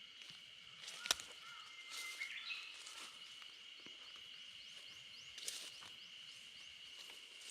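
Quiet countryside ambience. A bird sings a run of short rising notes, about three a second, for a couple of seconds, after a single rising whistle. Under it runs a steady high-pitched tone, with two sharp taps.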